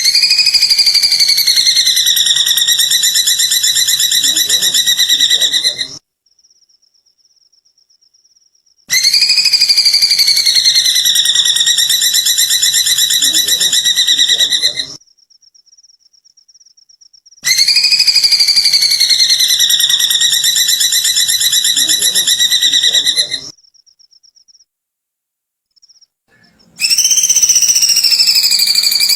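A bird's long, fast, rattling trill, rising briefly at the start and then sliding down and levelling off. It repeats four times with pauses of about three seconds. This is the call known in Indonesia as the bird's "kikikan kunti", likened to a kuntilanak ghost's giggle.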